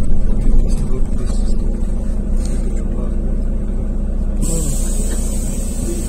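Irisbus Crossway 12M coach's Iveco Cursor 8 (F2B) six-cylinder diesel running steadily under way, heard on board. A steady high hiss joins about four and a half seconds in.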